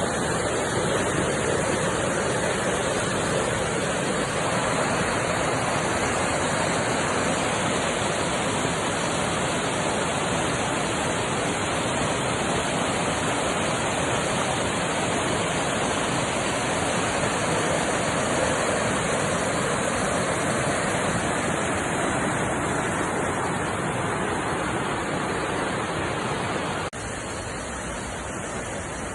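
Steady rushing roar of a waterfall, which drops abruptly to a somewhat quieter rush near the end.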